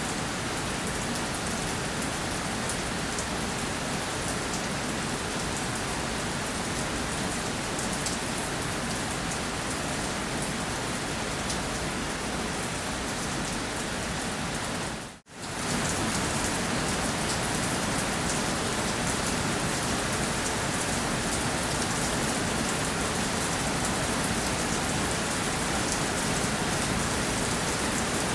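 Steady rain falling on a surface, a dense even hiss flecked with the ticks of single drops. About halfway through it dips to near silence for a fraction of a second, then comes straight back at the same level.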